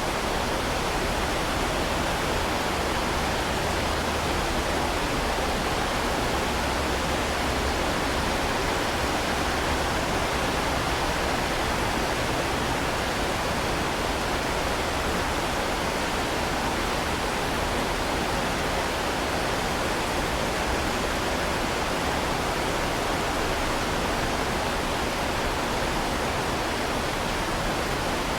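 Heavy rain falling steadily: a dense, even hiss with no separate drops, knocks or thunder standing out.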